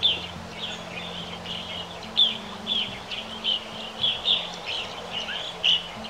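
A bird calling in short, quick chirps, about two a second, each a brief falling note, with low held music notes underneath.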